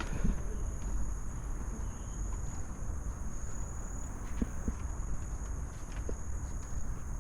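Steady high-pitched insect drone in the forest, with the scuffs of footsteps along the trail and a constant low rumble.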